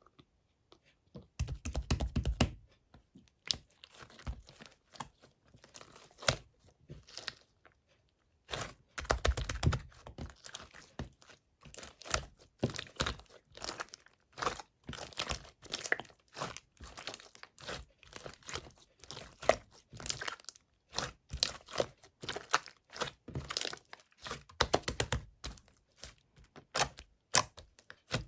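Clear slime mixed with clay being kneaded and stretched by hand, giving many short, irregular sticky clicks with denser bouts now and then.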